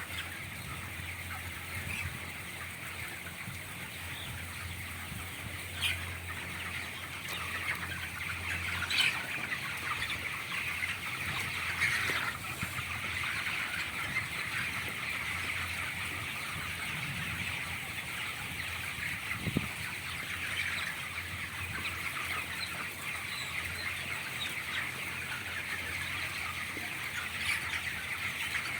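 Dense, continuous chatter of a large flock of 25-day-old broiler chickens, thousands of birds cheeping and clucking at once. Under it runs a low steady hum, and a few short sharp clicks stand out.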